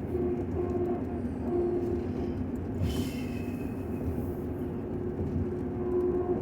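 Steady vehicle rumble with a low held hum, and a brief higher-pitched tone about three seconds in.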